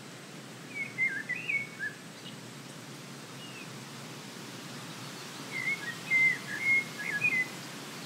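A small songbird sings two short warbling phrases of quick, bending whistled notes, about a second in and again after five and a half seconds, over a steady background hiss.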